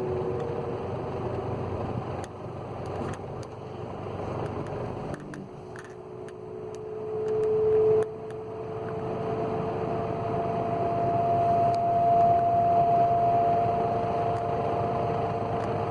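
Dayton fan on a stand running on its low setting: the motor hums with a steady whine over the rush of air from the blades. One tone swells and drops away sharply about eight seconds in, and a higher whine holds steady after that.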